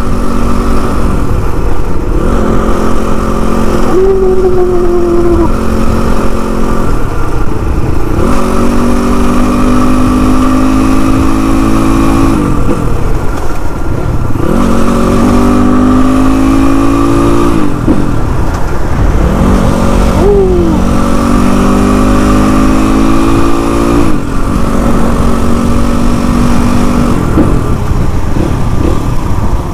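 Motorcycle engine under way, its pitch climbing as it accelerates and dropping back several times as it shifts up through the gears, over a constant rushing noise.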